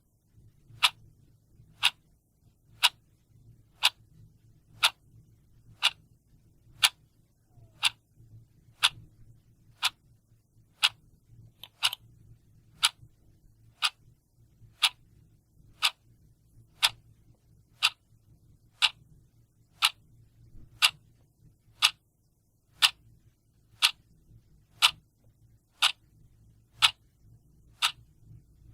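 A clock ticking steadily, about one tick a second.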